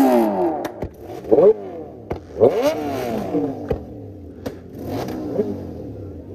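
Kawasaki ZX-10R inline-four superbike with an SC-Project exhaust being revved in short blips: the revs fall away at the start, then about three quick revs each rise sharply and drop back. A few sharp cracks come between them.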